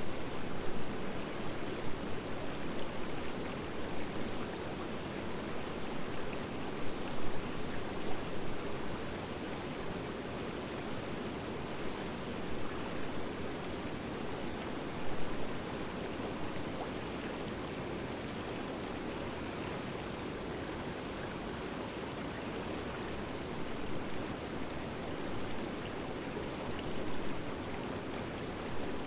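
Wood fire of driftwood and dry hardwood burning in a fire pan: a steady rushing noise with clusters of crackles and pops over the first several seconds, about fifteen seconds in, and again near the end.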